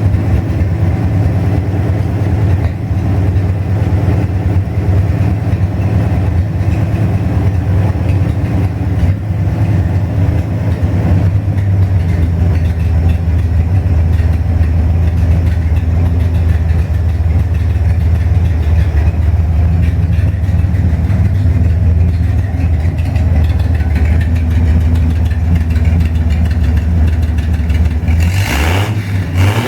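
Chevrolet 235 straight-six engine running steadily on its first start-up, then revved, rising sharply in pitch near the end.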